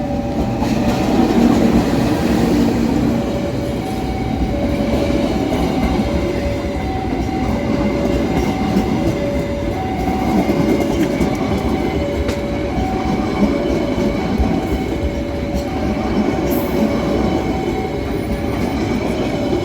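Train running past on the rails with a steady rumble and wheel clatter, while a two-tone electronic warning signal alternates high and low, about one tone every half second, throughout.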